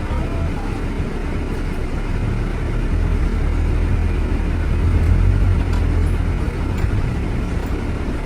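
Road traffic: a heavy, steady low rumble of vehicle engines and tyres that swells about three seconds in, is loudest around five seconds, and eases after six.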